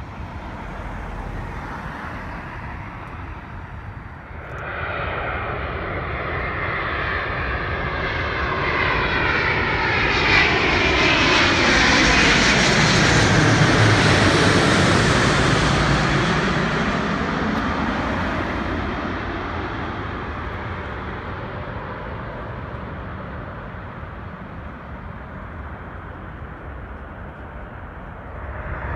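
Airliner flying past close by: its engine noise swells in about four seconds in, peaks around the middle with a sweeping, phasing rush, then slowly fades away.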